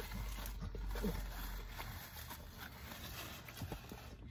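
Faint chewing and mouth noises from people eating hamburgers, with small wet clicks and lip smacks. A low background hum fades out about two seconds in.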